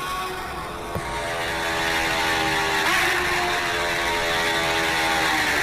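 Motorcycle engine running under way at a fairly steady note whose pitch drifts and shifts slightly about halfway through, with wind noise on the microphone and a short click about a second in.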